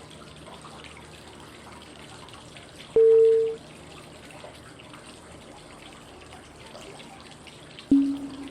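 Steady flowing-water white noise with two cue tones about five seconds apart: a short, higher tone about three seconds in and a lower, longer, fading tone near the end, marking the steps of a 5-second inhale, hold and exhale breathing cycle.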